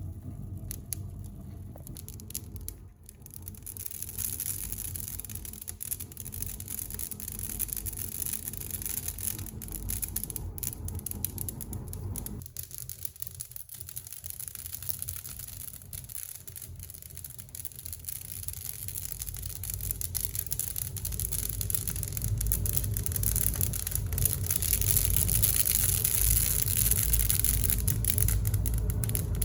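Campfire crackling with many small, irregular snaps over a steady hiss, while a low rumble grows louder through the second half.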